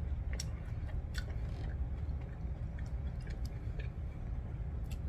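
Close-miked chewing of a Brussels sprout, with scattered small wet mouth clicks, over a low steady hum.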